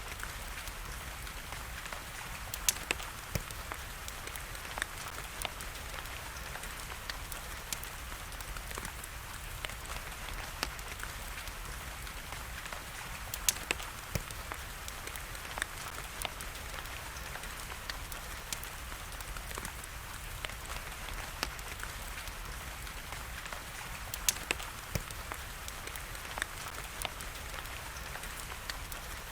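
Wood fire crackling in a fireplace, with irregular sharp pops over a steady hiss of rain.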